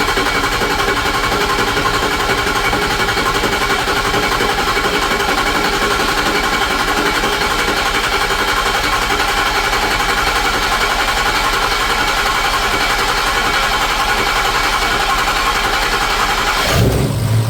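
Starter motor cranking a 6.0 Powerstroke V8 diesel steadily for a long time; near the end the engine catches and runs. The long crank comes from the high-pressure oil rails having to refill and build enough pressure to fire the injectors after the system was air-tested, which is normal after such testing.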